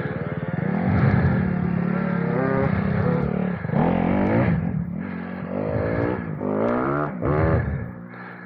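Adventure motorcycle engine revving up and easing off several times as the bike pulls away on rough, hilly ground, getting quieter near the end.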